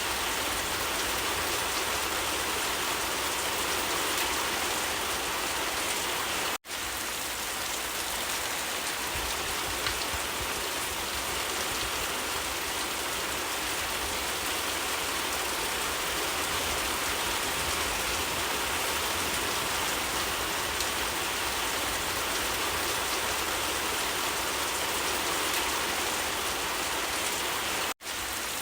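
Steady rain falling, an even hiss of drops on surfaces. It cuts out to silence for a split second twice, about seven seconds in and near the end.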